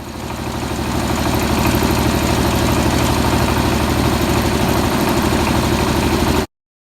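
Old Kubota KMF walk-behind tiller engine running with a steady, even firing beat. It builds up over the first second and cuts off suddenly near the end.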